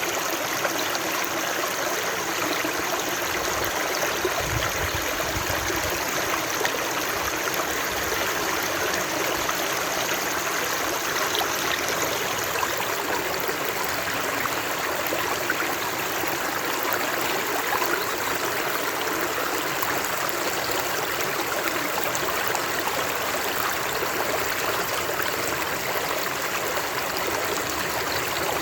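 Flowing stream water, a steady babbling rush with no breaks.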